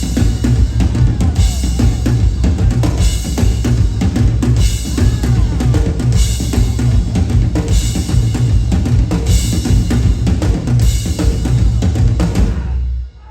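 Drums and percussion playing a loud, driving beat, with heavy bass drum, snare and rimshots in a pattern that repeats about every second and a half. The drumming stops abruptly just before the end.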